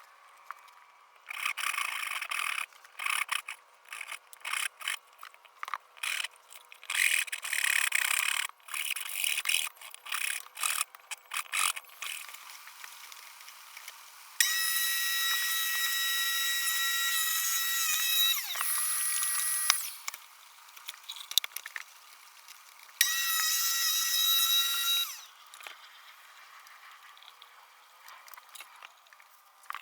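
Electric power tools in use: a handheld tool runs in many short, irregular bursts for the first dozen seconds. Then a motor runs with a steady high whine for about four seconds and winds down in pitch as it is switched off, and runs again for about two seconds.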